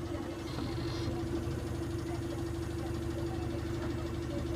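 Cummins diesel engine of a Zhongtong bus idling steadily, with an even drone and a constant low hum.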